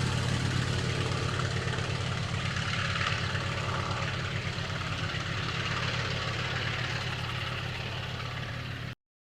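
Antonov An-2's nine-cylinder radial engine (Shvetsov ASh-62IR) running at idle with a steady low pulsing beat, growing gradually quieter. The sound cuts off abruptly about nine seconds in.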